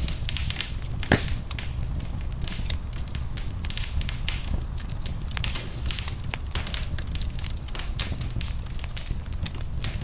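Wood fire burning in a fireplace, crackling with many irregular sharp pops and snaps over a steady low rumble of the flames; one louder pop about a second in.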